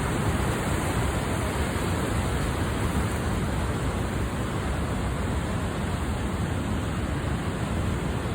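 River in record flood pouring through a dam: a steady, heavy rushing of water.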